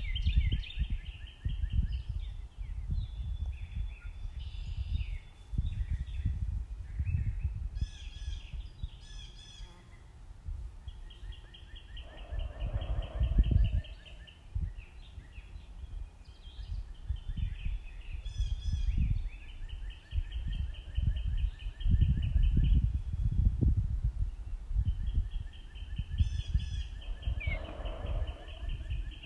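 Backyard songbirds calling: a rapid, even trill repeated three times, each lasting about three seconds, with scattered shorter chirps in between, over a gusty low rumble.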